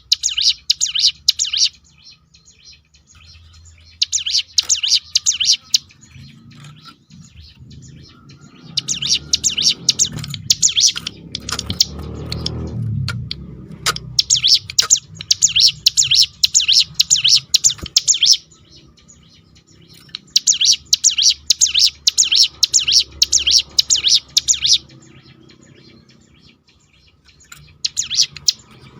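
Ciblek gunung (hill prinia) singing its rapid rolling 'tembakan' song: six high, fast-trilled bursts of about two to four seconds each, separated by short pauses. A low rumble swells underneath the bursts near the middle.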